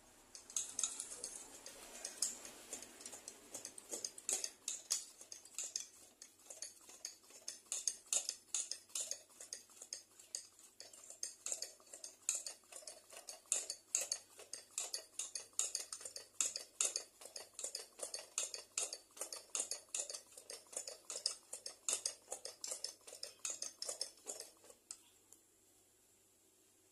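Hand air pump of a Petromax 823/500 CP kerosene pressure lantern being worked, with a metallic click on each stroke at about two strokes a second, pressurising the fuel tank. The pumping stops about 25 seconds in.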